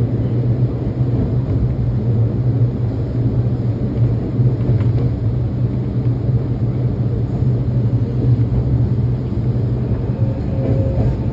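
Electric commuter train running along the track, heard from inside the driver's cab: a steady low rumble of wheels and running gear.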